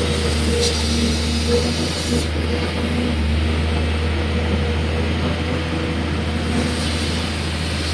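Excavator's diesel engine running steadily with a low drone.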